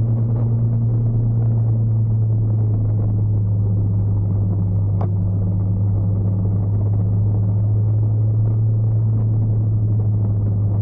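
Motorcycle engine running steadily while riding, a low drone whose note drops slightly about two seconds in. A brief faint chirp sounds about five seconds in.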